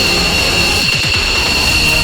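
Jet engines of F-15 fighters running on the ground at taxi power: a loud, steady high-pitched whine with two held tones over a low rumble.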